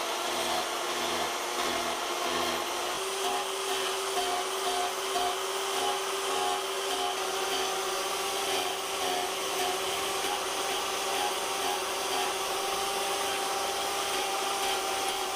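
RotoZip rotary tool fitted with a heavy gouge disc, running steadily at high speed with a constant whine. Its pitch steps slightly about three seconds in.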